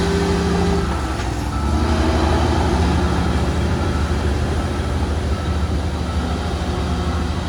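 Heavy diesel earthmoving machinery running, a steady low engine rumble whose pitch shifts about a second in and then holds.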